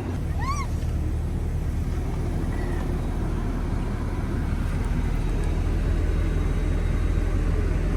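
Car interior noise while driving slowly: a steady low rumble of engine and tyres. A single short chirp rises and falls about half a second in.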